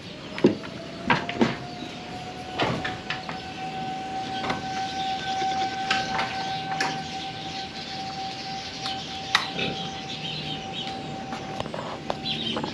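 Distant tornado warning siren sounding one steady tone that rises a little in the first second and then holds. Sharp knocks and clatters come through over it, several in the first few seconds.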